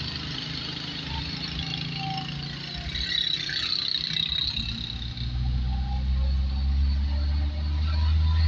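Car engine and road noise: a steady low rumble that grows louder about five seconds in.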